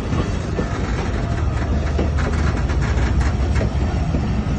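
Passenger train rolling past with a steady low rumble, its wheels clicking over the rail joints in a quick run near the middle.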